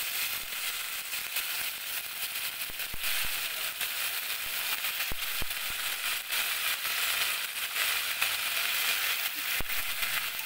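Oil sizzling in an aluminium pressure cooker as freshly added ginger-garlic paste fries with sliced onions and green chillies, a steady hiss broken by a few sharp crackling pops.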